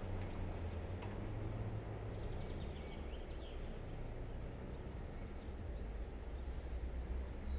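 Freight train giving a steady low rumble, with a few faint bird chirps about two to four seconds in.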